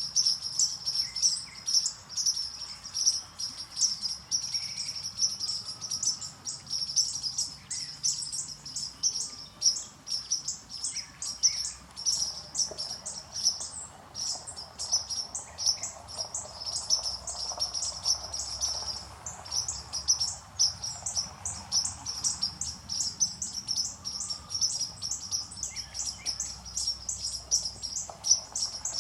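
A flock of many birds chirping at once: a dense, unbroken chatter of short high chirps, several a second, with a few lower calls scattered through it.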